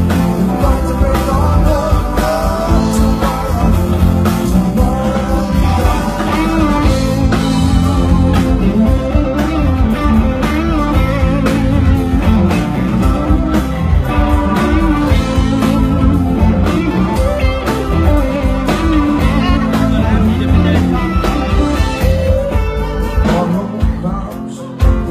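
Live band playing blues-rock with electric guitar and a singer, over a steady bass and drum beat; the music thins out near the end.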